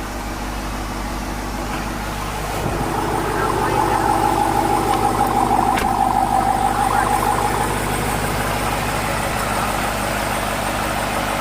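Car engine idling, a steady low hum with a higher whine that swells about three seconds in and eases off after about eight.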